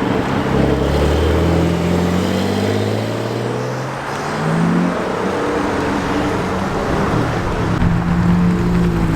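Car engine accelerating away: its pitch climbs for about three seconds, drops about four seconds in, then climbs again and holds high near the end.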